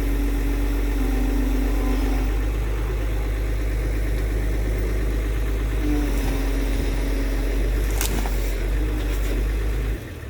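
Heavy diesel engine of an excavator running steadily at idle, with a deep low hum. It cuts off abruptly just before the end.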